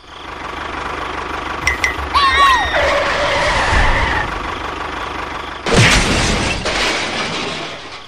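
Toy tractor with a steady engine-like rumble, a short falling cartoon whistle about two seconds in, then a sudden loud crash near six seconds as the tractor breaks through and drops into the pit.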